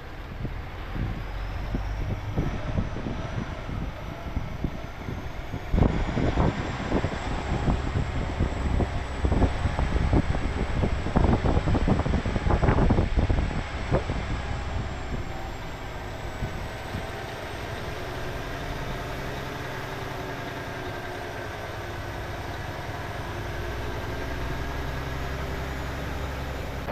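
Heavy diesel engine running, with a rising high whine above it. About six seconds in, a run of loud clanks and knocks begins and lasts around eight seconds, after which the engine settles into steady running.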